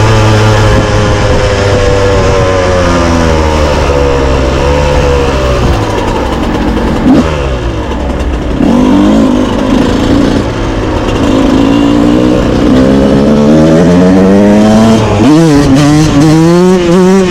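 Yamaha YZ125's two-stroke single-cylinder engine revving. Its pitch falls over the first several seconds, then climbs again, warbling with quick throttle blips near the end.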